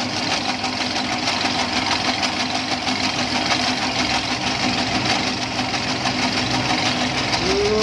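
Motorized noodle-making machine, a manual crank model converted to an electric motor drive, running steadily with a continuous mechanical hum.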